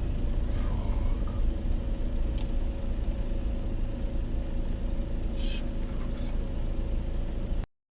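Steady low rumble of a vehicle driving, cutting off abruptly near the end.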